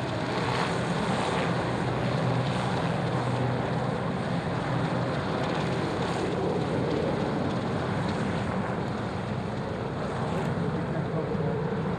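Aircraft engine noise running steadily: a low hum under an even rushing noise.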